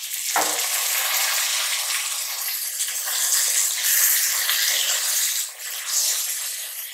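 Chopped tomatoes sizzling in hot oil with fried onions in a pressure cooker, a steady hiss, with a short knock about half a second in and a spatula stirring them near the end.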